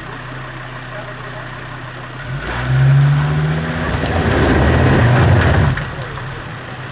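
Off-road 4x4's engine idling, then revved hard under load for about three seconds, its pitch climbing at first, before dropping back to idle.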